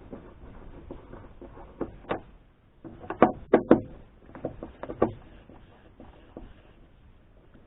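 Interior trim panels of a kei car being worked loose by hand: a scatter of sharp clicks and knocks, the loudest three coming close together about three and a half seconds in, with another about five seconds in.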